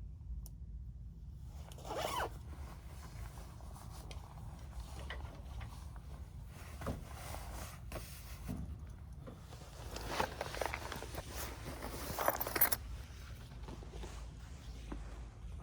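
Rustling of clothing and gear with zippers being pulled, once about two seconds in and in a longer run of pulls near the end, over a steady low rumble.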